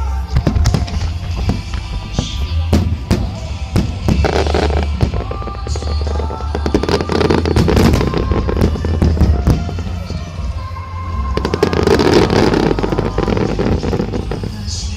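Large aerial fireworks bursting in quick succession: sharp cracks over a continuous deep booming rumble, with barrages that thicken twice, in the middle and near the end. Music plays underneath.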